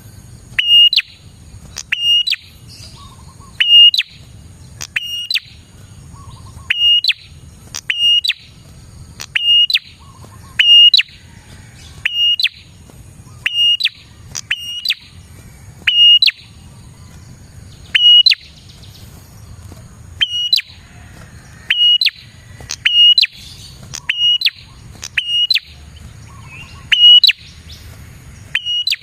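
A prenjak (prinia) calling: loud, sharp, clipped chirps, each phrase a short high note with quick flicks, repeated over and over at about one phrase a second in an even rhythm, the insistent call used as a lure for wild prenjak.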